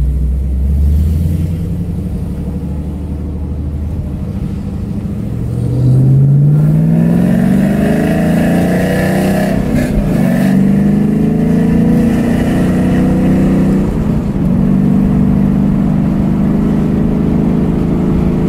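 Car engine heard from inside the cabin, running at low revs at first, then accelerating hard from about five seconds in and revving up through the gears, the pitch climbing and dropping back at each of several upshifts.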